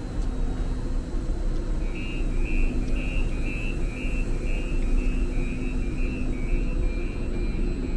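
Muni Metro light-rail train running, a steady low rumble with a motor hum. From about two seconds in, a rapid series of short high beeps, about two or three a second, sounds over it.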